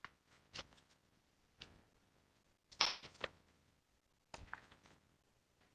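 Faint, scattered clicks and rustles near a microphone, the loudest cluster about three seconds in, typical of paper documents being handled.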